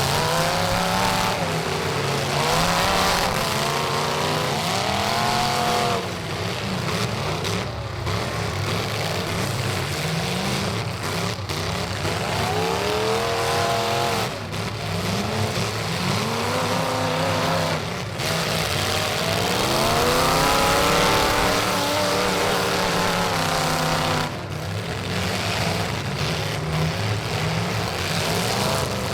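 Several race trucks' engines running hard around the track at once, their notes climbing and falling again and again as they accelerate, lift and pass by.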